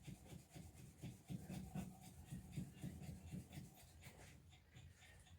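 Faint scrubbing strokes, about three a second, from grease being rubbed off a small metal truck part; they die away near the end.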